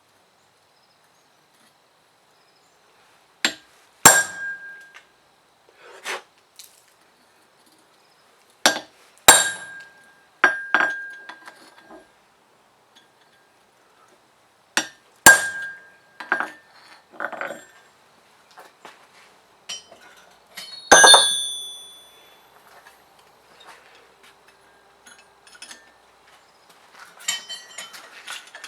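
Sharp clinks and knocks of hard objects striking, about a dozen irregular strikes starting a few seconds in, several leaving a brief ring; one strike about two-thirds of the way through rings longer and higher.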